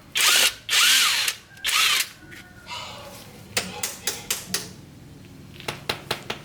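Handheld power tool run in three short bursts, its motor pitch rising and falling in each, followed by a series of sharp metallic clicks.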